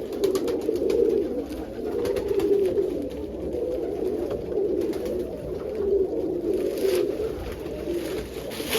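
Several pigeons cooing in their loft, their low, overlapping coos running on without a break.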